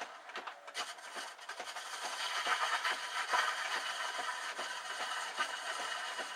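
A spindle gouge cutting wood spinning on a treadle lathe: a steady scraping hiss from the cut, with many small clicks underneath.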